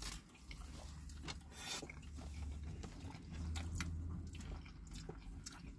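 Faint chewing and biting of a cheesy Mexican pizza, with scattered soft crunches and wet mouth clicks. A low steady hum runs underneath and swells for about a second partway through.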